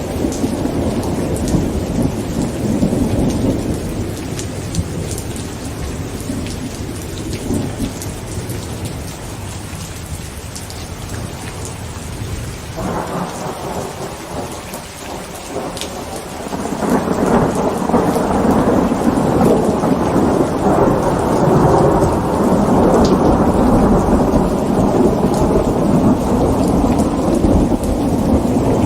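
Heavy rain pattering on a tent with thunder rumbling. The rumble eases off in the middle, then a new roll of thunder builds about halfway through and rolls on loudly to the end.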